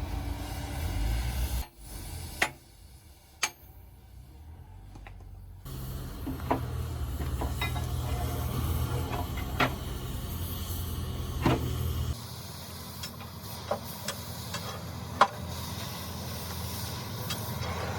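Workshop machinery noise: a steady low mechanical hum with scattered sharp metal clicks and knocks, the background changing abruptly a few times.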